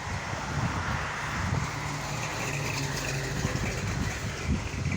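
Motor vehicle driving by on the street: a steady low engine rumble with road noise.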